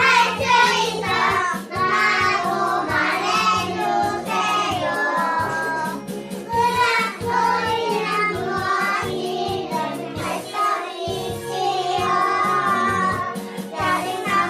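Young children singing a children's song in unison to an upbeat recorded backing track.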